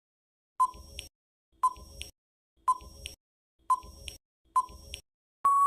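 Quiz countdown timer sound effect: five short ticks about a second apart, then a steady electronic beep near the end marking that the answering time is up.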